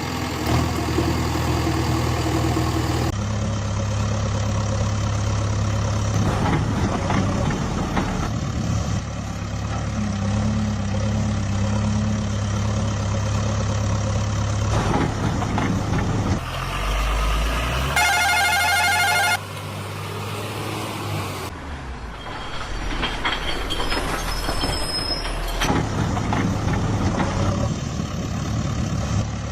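Engine sounds of vehicles in a string of short pieces that change abruptly several times, with a brief wavering horn-like tone about eighteen seconds in.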